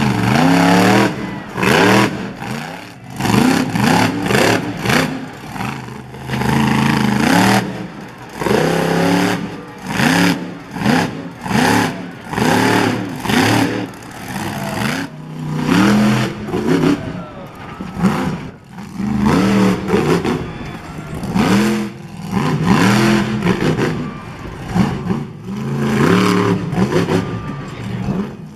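Monster truck engines revving hard in repeated bursts, the pitch climbing and dropping every second or two.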